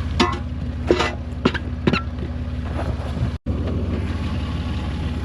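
Truck engine running steadily with an even low pulsing drone, and a few short sharp clicks and knocks from the rigging in the first two seconds.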